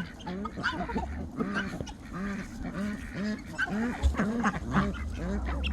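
Domestic ducks quacking over and over, a steady run of short calls about two or three a second.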